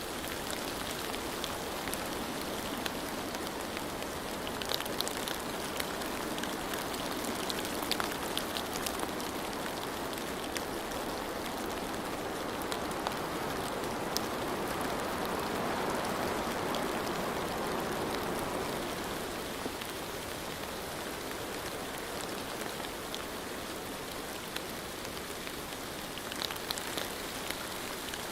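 Steady rain falling on a surface, with scattered individual drop ticks; it swells a little in the middle.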